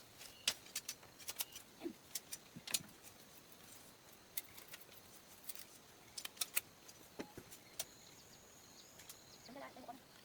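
Irregular sharp clicks and light taps, a few per second, with a faint high thin tone near the end.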